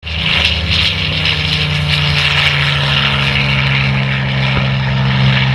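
Boeing-Stearman biplane trainers' radial engines and propellers running steadily, a low even tone with a hiss above it, a little louder near the end.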